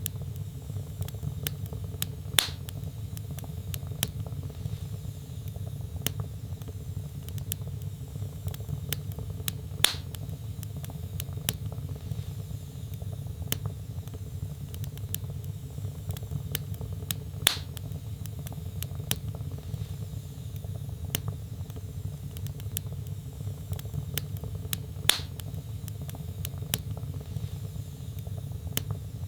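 Log fire in a fireplace crackling, over a steady low rumble of the flames. Frequent small snaps, with a louder pop about every seven and a half seconds.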